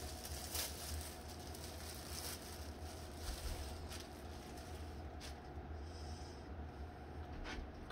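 Faint handling noises of coffee-maker accessories and packaging being unpacked: a few soft clicks and knocks over a steady low hum.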